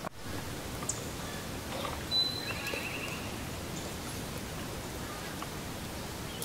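Outdoor woodland ambience with a steady hiss. About two seconds in, a small bird calls briefly: a thin high whistle, then a quick high trill.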